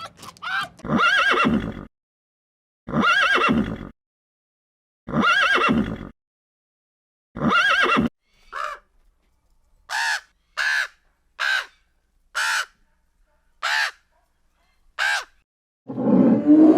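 Horse neighing four times, each call about a second long, followed by seven short, higher-pitched calls spaced a second or so apart.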